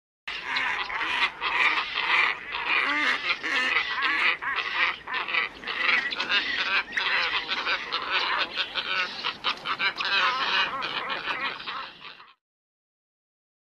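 A flock of black ibises calling: a dense chorus of harsh, overlapping calls from a bird-lure recording, which cuts off suddenly about twelve seconds in.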